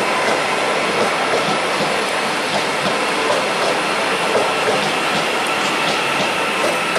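Electric multiple unit train, a TransPennine Express Class 397, moving along the platform: a loud, steady rush of wheel and rail noise with a faint steady whine.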